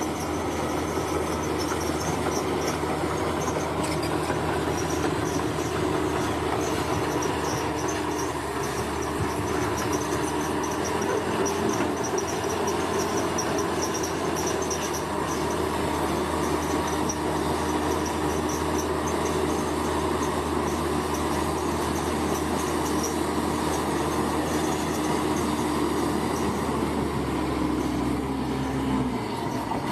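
Crawler bulldozer at work: its diesel engine runs steadily under a continuous squeal and rapid clatter from its steel tracks. The engine note changes just before the end.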